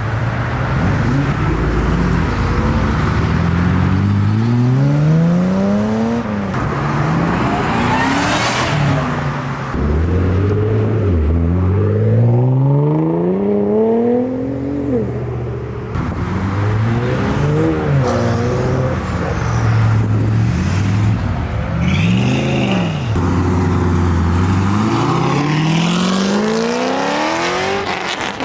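Loud modified car engines revving hard and accelerating away, the engine pitch climbing and dropping again and again in a string of rev sweeps.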